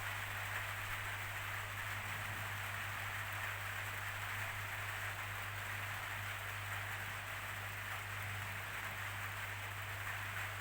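Steady rainfall, an even hiss of falling rain that does not change, with a steady low hum underneath.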